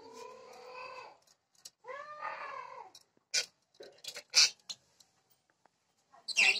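Cat meowing twice, each call about a second long, the second rising and falling in pitch, followed by a few sharp clicks and taps.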